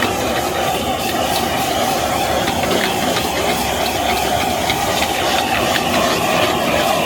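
Wok stir-frying of rice noodles with egg and pork: a steady hiss of sizzling over the gas burner, with frequent clicks and scrapes of the spatula against the wok.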